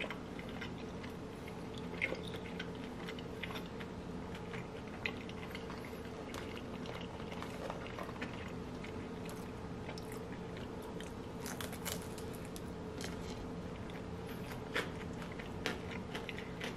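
Chewing and biting into crispy fried chicken tenders: scattered small crunches and mouth clicks over a faint steady hum.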